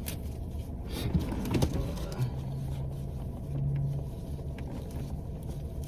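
Steady low rumble inside a car's cabin, with a few soft knocks and rustles near the start and a brief low hum in the middle.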